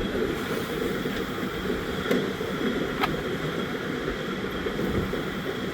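Wind buffeting the microphone: a steady, rumbling rush with a couple of faint clicks about two and three seconds in.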